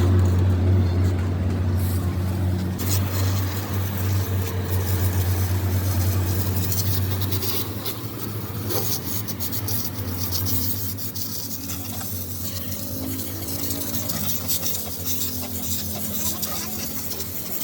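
A steady low machine hum, like a running engine or motor, with scattered clicks over it.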